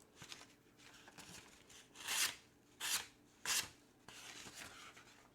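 A knife blade drawn across a sharpening stone in three short strokes, about two seconds in, with lighter scraping and rubbing around them.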